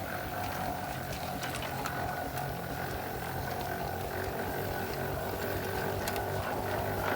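Half-scale coal-fired Case steam traction engine running: a steady mechanical hum with a couple of steady tones and a few scattered clicks.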